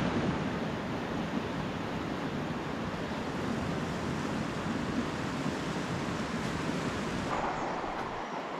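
Steady rush of fast-flowing river water, a dense even noise with no clear pitch.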